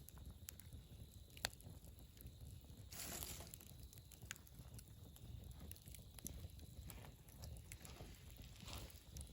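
Wood fire burning quietly over a low steady rumble, with scattered sharp crackles and pops, the sharpest about a second and a half in, and short hissing flares around three seconds in and near the end.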